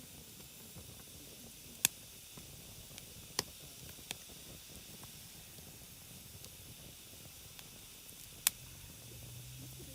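Wood campfire burning with a steady soft hiss and a few sharp crackling pops: a loud one about two seconds in, two smaller ones a little later, and another loud one near the end.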